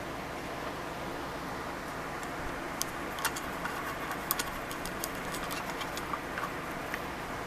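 A loose run of light, sharp clicks and taps, like small hard parts being handled, starting about three seconds in and fading out near the end, over a steady background hiss.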